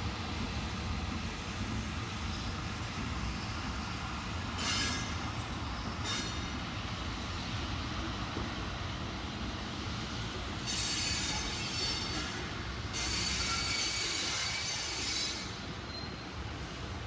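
Train running on the rails with a steady low rumble, its wheels squealing: two short squeals about five and six seconds in, then two longer stretches of squealing from about eleven to fifteen seconds.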